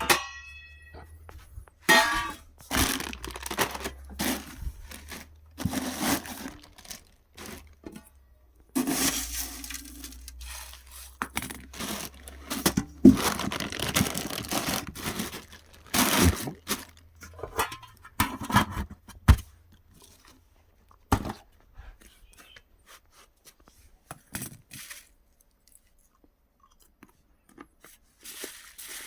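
Crisp breakfast food being bitten and chewed close to the microphone: irregular crunching and tearing sounds in short bursts with pauses, thinning out over the last few seconds.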